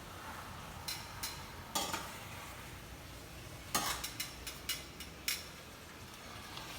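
Food sizzling steadily in a frying pan, with about ten light clicks and taps of a utensil against cookware, in two clusters: early, and again midway.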